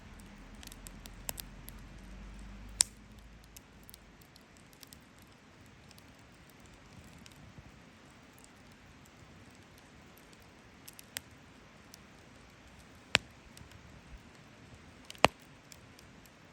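Wood fire crackling: a faint steady hiss with scattered small ticks and three sharp pops, about three seconds in and twice near the end.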